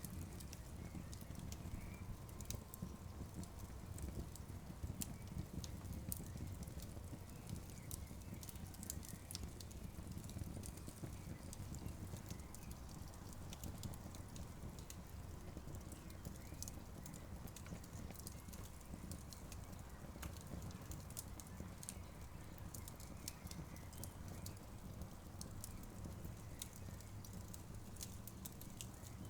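Campfire burning, the wood giving off frequent sharp crackles and pops at irregular intervals over a steady low rumble.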